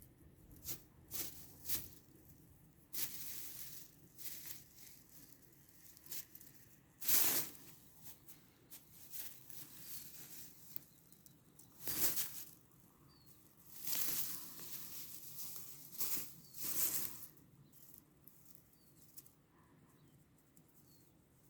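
Grass rustling in irregular bursts as a cat plays in it, with the loudest swishes about seven, twelve and fourteen to seventeen seconds in, then quieter toward the end.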